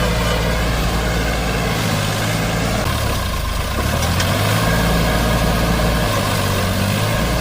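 Heavy diesel tractor engine running steadily with a deep low throb, its note shifting a little about three seconds in and again near the end.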